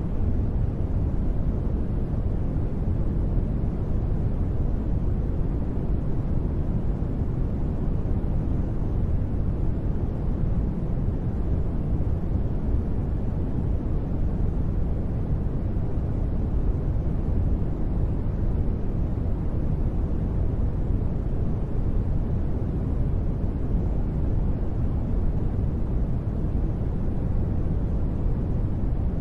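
Continuous synthetic noise for sleep, steady and unchanging. It is a deep, dark hiss, strongest in the bass and fading toward the highs.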